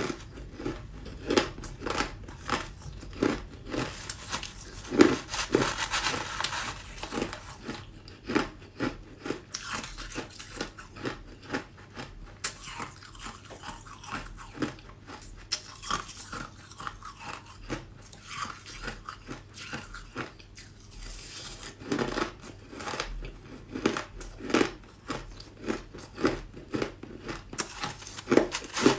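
A person biting and chewing ice close to the microphone: a steady run of irregular crunches, several a second, with louder crunching bites now and then.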